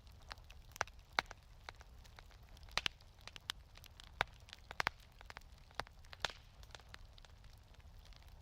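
Wood fire crackling in a fireplace: irregular sharp pops and snaps, a dozen or so, the loudest about a second in and around the middle, over a soft low rumble.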